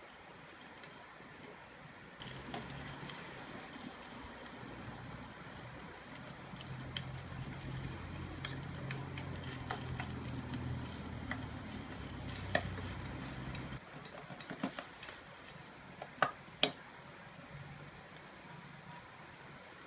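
Meat and chopped green peppers sizzling in a miniature stainless steel pot while a small wooden spoon stirs them. The spoon scrapes and clicks against the pot, with a few sharp taps near the end.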